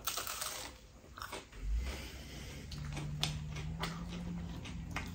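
A bite into a slice of spinach and cheese pizza, the crisp crust crunching, then chewing with scattered small crunches. A low steady hum comes in about halfway through.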